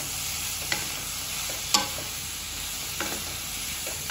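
Diced onions and tomatoes sizzling in a kadhai as a spatula stirs them, with a few knocks of the spatula against the pan, the sharpest a little under two seconds in.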